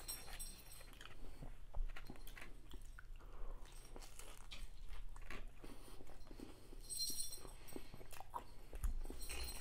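Close-up chewing and biting of a crispy fried-chicken sandwich with onion rings: irregular small crunches and wet mouth sounds. A short high jingle sounds about seven seconds in and again near the end.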